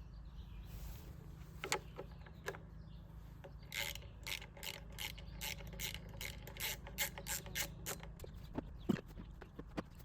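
Hand ratchet clicking as it is worked back and forth to back out screws from a mower engine's cover, a steady run of sharp clicks about three a second in the middle, with a few single clicks before it.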